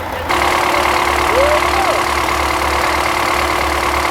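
Vehicle engine idling steadily, cutting in abruptly just after the start.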